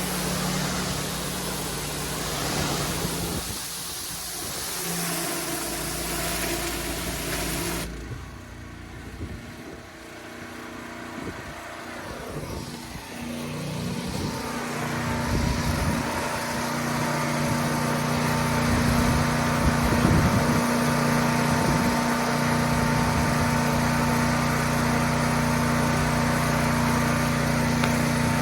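Pressure-washer engine running steadily. About a third of the way in it goes quieter for a few seconds, then returns to its steady running.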